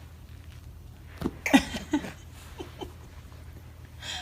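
A dog making a few short vocal sounds, clustered about a second in with two more brief ones just after the middle, over a low steady hum.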